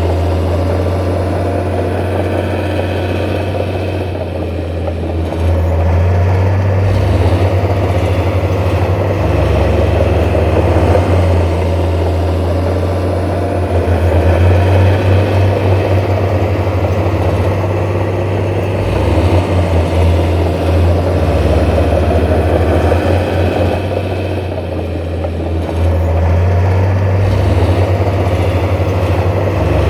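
Heavy diesel engine of earthmoving machinery running steadily, its low drone swelling and easing several times as the load changes.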